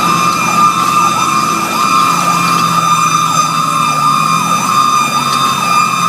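Fire engine sirens: an electronic siren yelping in rapid up-and-down sweeps about twice a second, under a second, steady high siren tone, with the truck's engine running beneath.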